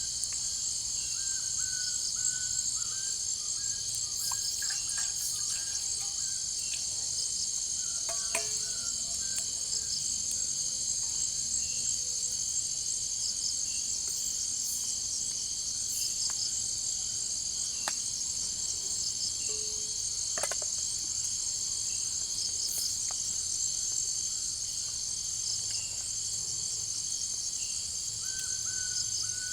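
Steady, high-pitched chorus of jungle insects such as crickets, with a few sharp clicks or snaps scattered through it and faint short chirps near the start and end.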